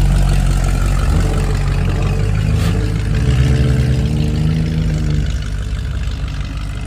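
A car engine running with a deep, loud idle. It rises a little for a couple of seconds about halfway through, then settles and gets quieter near the end. A single sharp click sounds just before the rise.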